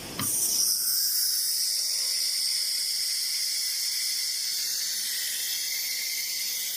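6090 ATC CNC router giving a steady high hiss with faint whining tones, switched on abruptly with a click about a quarter second in.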